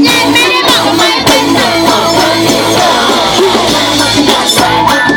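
Live band playing a loud rock-pop song, with singing and a steady beat.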